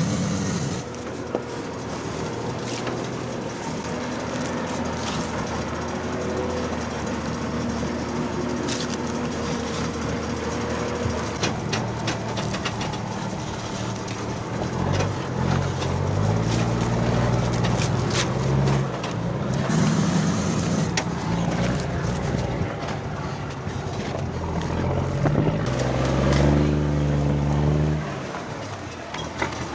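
Engine of a modified REO 6x6 army truck running, with rattles throughout. In the second half its pitch rises and falls several times as it is revved.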